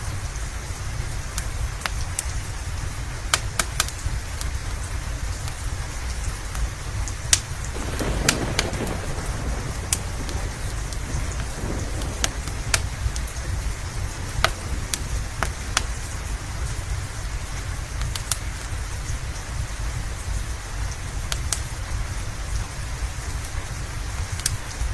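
Steady rain with a deep low rumble, overlaid by sharp, irregular pops and crackles of a wood fire. About eight seconds in the sound briefly swells.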